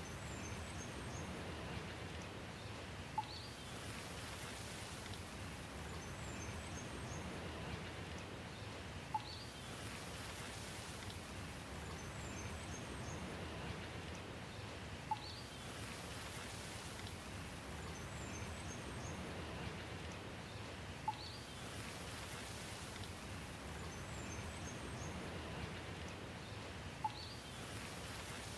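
Steady rain with faint high bird chirps and a short sharp tick. The chirps and tick come back about every six seconds in the same pattern, like a repeating loop.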